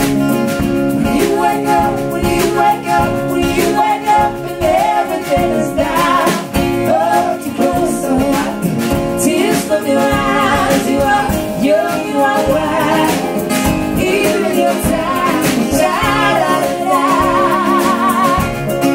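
Live acoustic song: singing over guitar accompaniment, with a held note sung with vibrato near the end.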